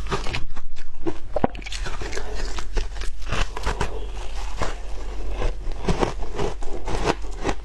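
Shaved ice bitten and chewed between the teeth: a quick, irregular run of sharp crunches.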